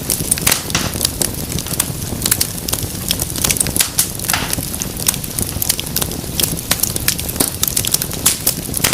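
Wood fire in a fireplace burning with a steady low rumble. Dense, irregular sharp crackles and pops, several a second, run over it, with a short hiss about four seconds in.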